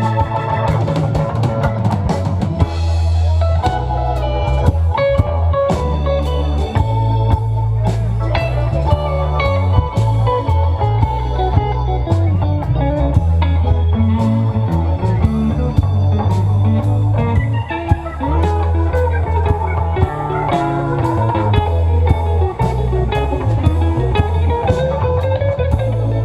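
Live rock band playing an instrumental passage: a lead guitar line with bending, sliding notes over bass guitar and drum kit.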